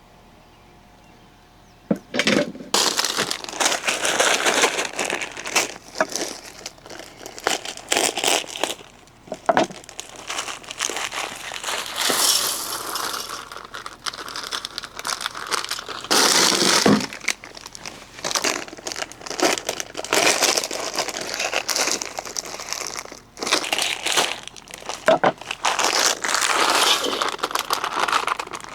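Crinkling and crumpling of wrapping being handled, in long irregular spells with a few short pauses.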